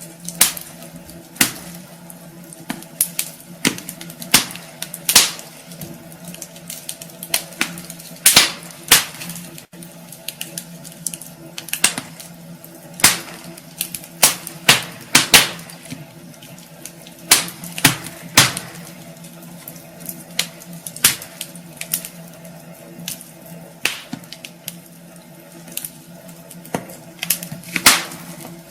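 Wood fire crackling in a fireplace: irregular sharp pops and snaps, bunched several to a second at times, over a low steady hum.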